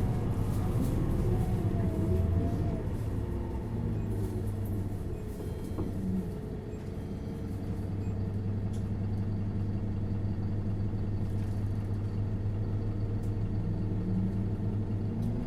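Isuzu Erga LV290N1 city bus's four-cylinder diesel engine heard from inside the bus while it is driving. The engine note rises and falls in the first few seconds, holds steady through most of the stretch, then climbs near the end as the engine revs up.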